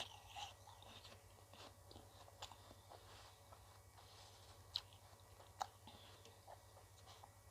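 Faint, close-miked chewing of ice cream, with small scattered mouth clicks and two sharper clicks near the middle, over a steady low hum.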